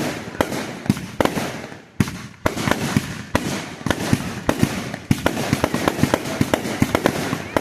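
Fireworks going off: a run of sharp bangs with crackling between them, the bangs coming faster and closer together from about five seconds in.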